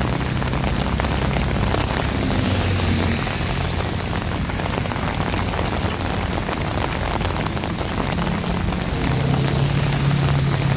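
Heavy rain falling steadily as a dense hiss, with a low engine hum underneath that grows louder near the end.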